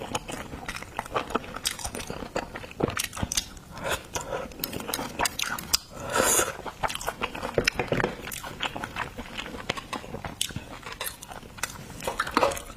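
Close-miked eating of seafood: biting and chewing with many quick wet clicks and crunches, and a louder crunch about halfway through.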